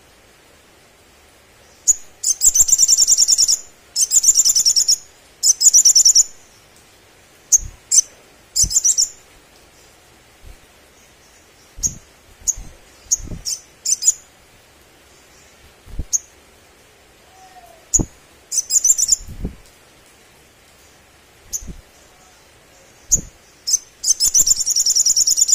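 Sogon, a sunbird, singing hard: bursts of rapid, very high buzzy trills about a second long, separated by short sharp chips. A few brief low knocks fall between the bursts.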